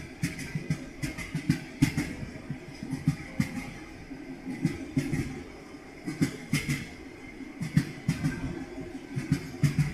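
Railway carriage wheels clattering over rail joints: a steady run of knocks, often in quick pairs and groups, over a low running rumble.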